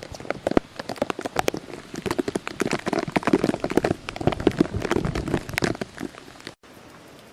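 Rain, with many drops spattering irregularly close to the microphone. About six and a half seconds in the sound cuts out for a moment and gives way to a steady, even hiss.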